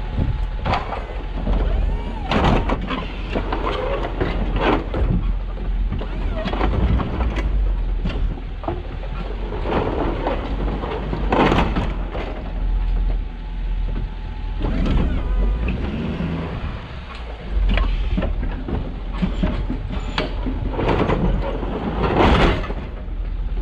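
Snow plow truck running with a steady low rumble, with a series of sharp knocks and clanks scattered through it.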